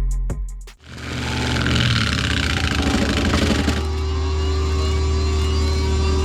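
Music with a drum beat cuts off under a second in, then a heavy-equipment engine runs steadily and loudly, with a harsher noisy layer over it that drops away about four seconds in.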